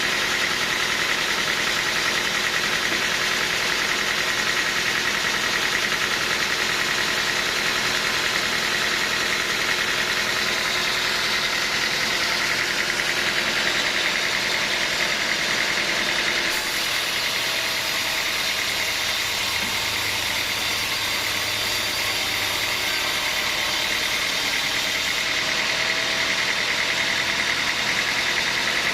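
Sawmill machinery running steadily, a continuous loud mechanical din whose character shifts slightly about halfway through.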